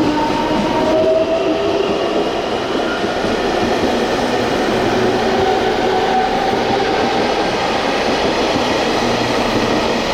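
Electric local train moving through the station, a steady rush of wheel and rail noise with faint whining tones that slowly shift in pitch.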